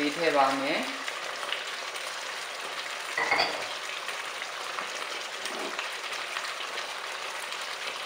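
Pork pieces and spicy-sour sauce sizzling steadily in a hot nonstick wok, with a brief knock about three seconds in.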